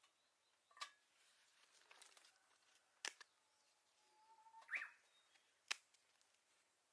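Faint handling noises: four sharp, light clicks spread a second or two apart, with a short scrape just before the third.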